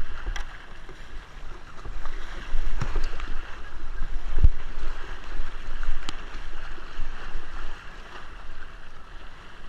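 Kayaks moving on water: paddles splashing and water sloshing, with a low rumble on the microphone and a few sharp knocks.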